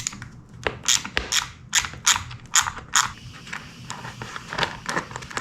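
Socket ratchet clicking in repeated short strokes, about two to three a second, as it turns a 10 mm bolt.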